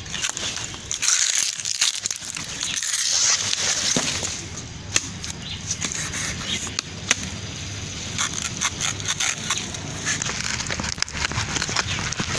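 Leaves and plant stems rustling and crackling, with many small irregular snaps and clicks, as someone moves through rain-flattened garden plants.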